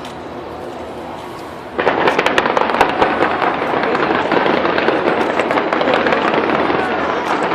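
New Year fireworks display: a softer, even rumble for about two seconds, then a sudden dense barrage of bangs and crackling that keeps going.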